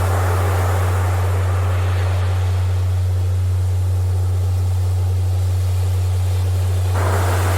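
A steady low hum-like tone, a healing-frequency track, held unbroken over recorded ocean surf whose wash swells and ebbs. A fresh wave surges in suddenly near the end.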